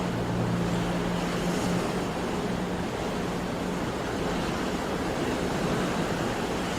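Sea waves washing on the shore in a steady, even rush, with a faint low hum in the first two seconds.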